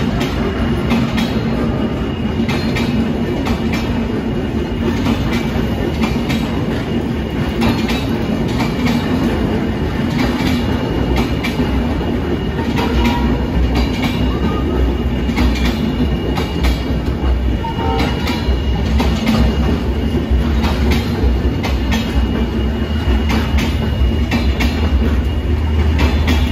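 Passenger coaches of an intercity train rolling past at steady speed, wheels clacking over the rail joints in an irregular run of clicks over a continuous low rumble.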